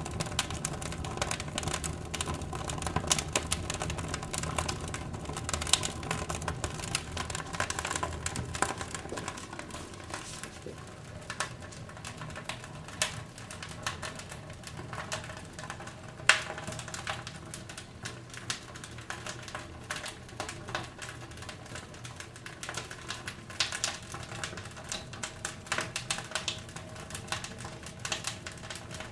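Firewood burning in a cast-iron stove-fireplace, crackling with dense irregular snaps and pops and a few louder cracks, one sharper crack about halfway through.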